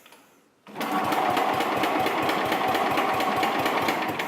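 Tecumseh HH100 single-cylinder flathead engine of a 1966 Sears Suburban 10 tractor being cranked over by its starter-generator, with a rapid even chugging beat. It starts about a second in and stops near the end without the engine catching, since it was cranked without the choke.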